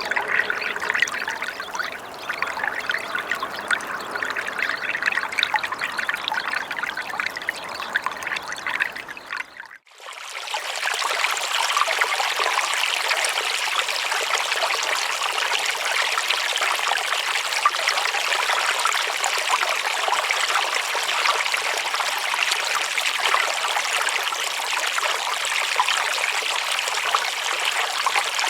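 Running water trickling and pouring steadily. About ten seconds in it fades out briefly and a different, brighter stretch of running water takes over.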